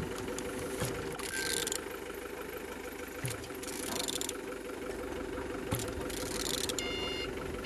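A VW BKC 1.9 TDI diesel engine being turned over by hand, giving short hissing bursts every couple of seconds with faint clicks and knocks. A steady machine hum runs underneath.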